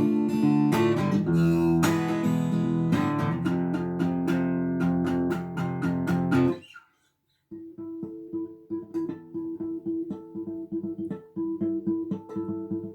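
Acoustic guitar played fingerstyle: thumb bass notes with three-finger strikes across the four top strings, a steady run of chord strokes that stops suddenly about halfway through. After a short silence, quieter single notes are plucked over and over.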